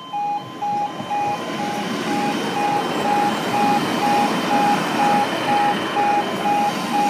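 Level crossing alarm beeping at a fixed pitch, about two beeps a second, while a diesel passenger train runs over the crossing. The train's rolling rumble builds from about a second in and stays loud.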